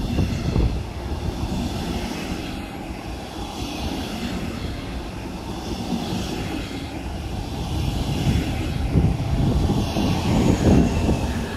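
Gusty wind buffeting the microphone over the steady rumble of a train passing through the station, with faint high whining tones above it.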